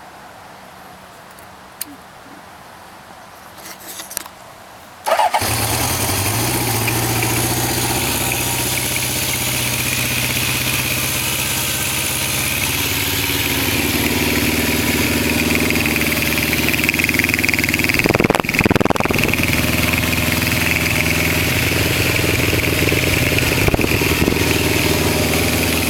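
A few faint clicks, then the 1974 Honda CB750K's inline-four engine starts about five seconds in and runs steadily at idle.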